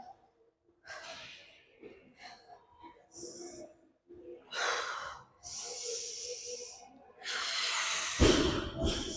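A woman breathing hard from exertion during a strenuous glute exercise set: a series of long, hissing exhalations, the loudest near the end.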